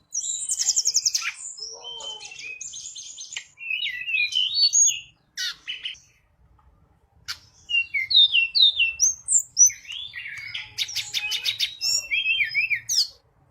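A tledekan gunung songbird singing continuously: quick, varied phrases of sharp chirps, rapid buzzy trills and short whistled notes, with a pause of about two seconds around the middle.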